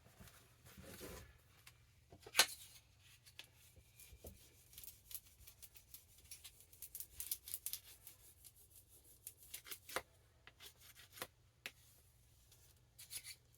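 Faint, scattered crackles and rubbing of tape being stretched and pressed down onto a book's spine.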